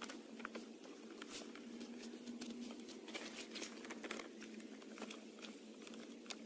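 Small campfire crackling, with many quick irregular snaps and pops.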